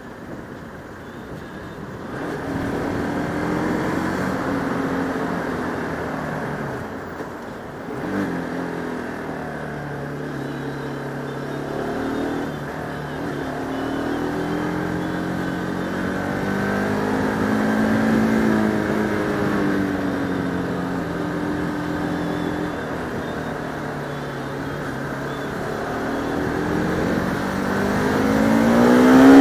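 Bajaj Pulsar RS200 single-cylinder motorcycle engine heard from the rider's helmet, its pitch climbing and dropping repeatedly through the gears under a steady wind rush, then revving up hard near the end.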